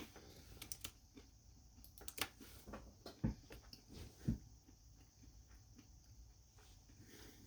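Faint chewing of a mouthful of almonds and cashews: scattered sharp crunches and clicks, with a few louder crunches in the middle.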